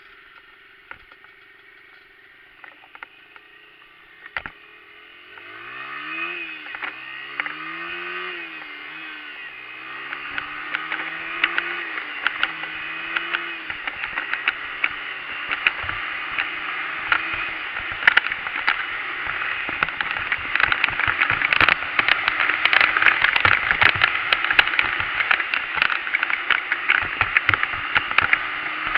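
Dirt bike engine revving up and down a few times about five seconds in, then running on and getting steadily louder, with a dense clatter over it.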